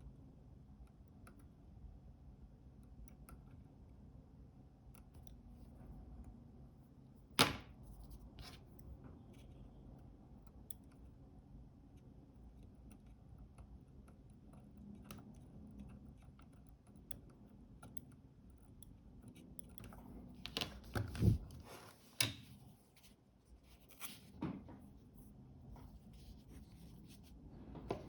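Small clicks, taps and knocks of hand tools and camera parts being handled at a repair bench, with one sharp click about seven seconds in and a cluster of louder knocks about twenty seconds in, over a low room hum.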